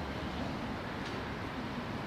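Electric commuter train running along the tracks, a steady low noise.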